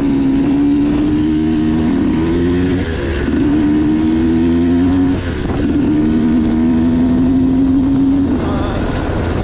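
Motocross dirt bike engine running under throttle, its pitch climbing slowly in three stretches, with the revs dipping briefly about three and five seconds in.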